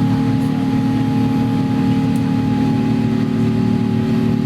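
Steady cabin drone of an Airbus A350-900 climbing out shortly after takeoff: the Rolls-Royce Trent XWB engines and rushing air, with several steady low hums.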